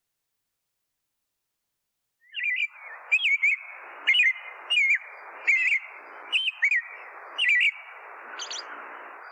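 Bird sound effect: after a couple of seconds of silence, a small bird chirps repeatedly, about seven short calls each under a second apart. Beneath them is a rushing hiss that swells with each call.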